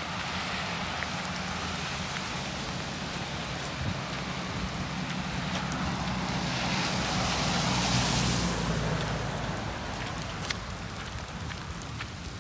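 Steady rain falling on pavement, with scattered drop ticks. A car passes on the wet road, its tyre hiss swelling to a peak about eight seconds in and then fading.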